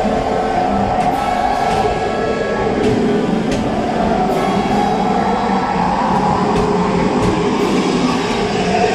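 Disneyland Railroad steam train rolling along the track, heard from a passenger car: a steady rumble of wheels on rail with scattered sharp clacks, and music fading in the background.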